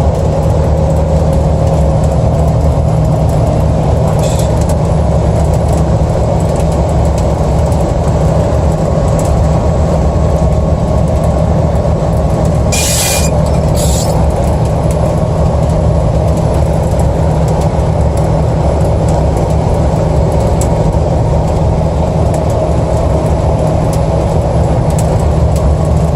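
Steady road and engine drone of a car driving at highway speed, heard from inside the cabin. Two brief hissing sounds come about halfway through.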